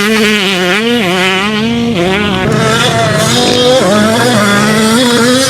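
250 cc two-stroke motocross bike engine revving hard, its pitch rising and falling with the throttle, with a brief drop about two seconds in.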